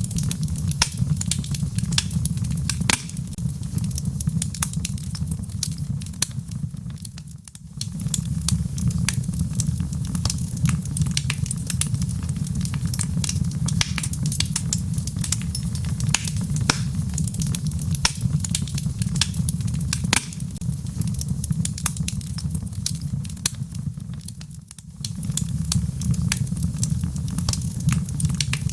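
Log fire burning in a fireplace: a steady low rumble of flames with many small sharp crackles and pops. Twice the whole sound briefly fades down and comes straight back up, about seven seconds in and near the end.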